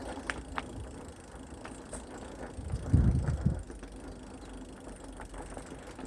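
Mountain bike being ridden on a dirt trail: scattered clicks and rattles from the bike over a low steady noise, with a louder low rumble about three seconds in.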